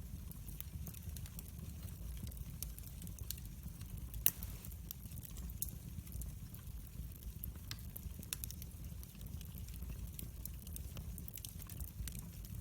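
Wood fire in a fireplace crackling, with scattered small pops over a steady low rumble and one louder pop about four seconds in.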